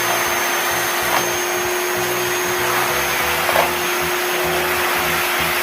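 Electric vacuum cleaner running steadily: an even rushing noise with a constant hum and a faint high whine.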